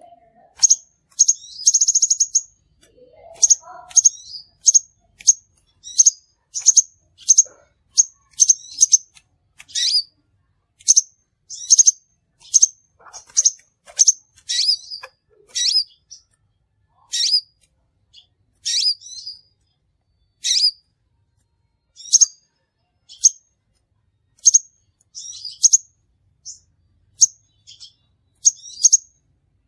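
Crimson sunbird calling: short, sharp, high chips repeated roughly once a second at uneven spacing, with a quick rapid trill about two seconds in.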